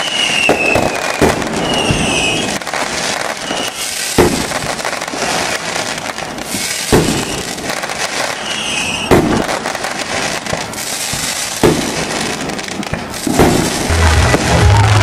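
Fireworks going off: sharp bangs every couple of seconds over a continuous crackle, with a few short whistles in between. A low music beat comes in near the end.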